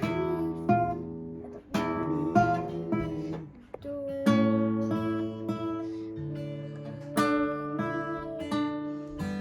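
Guitar practice: chords strummed one at a time, each left to ring for a second or so before the next. There is a short break about four seconds in.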